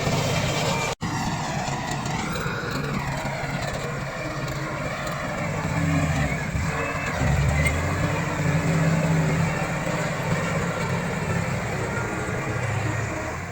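Diesel engine of a Komatsu D68 crawler bulldozer running as it works, growing louder a few times in the second half as it takes load. The sound drops out for an instant about a second in.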